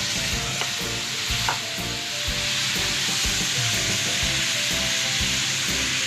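Food frying in a hot pan, sizzling steadily while being stirred, with two sharp clicks of a utensil against the pan in the first two seconds.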